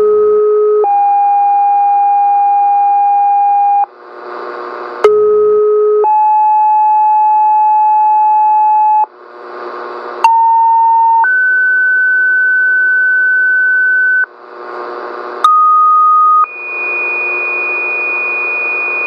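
Two-tone sequential pager tones over scanner radio, alerting fire and water rescue crews. Four pairs sound in turn, each a short tone of about a second followed by a longer steady tone of about three seconds at a different pitch. Radio hiss fills the gaps between pairs.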